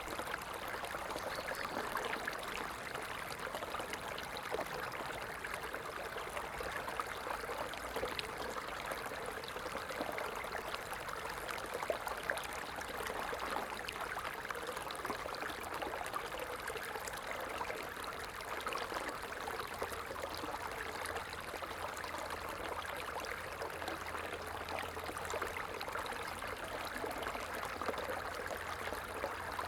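A small stream running steadily, water splashing and trickling over stones in an even rushing babble.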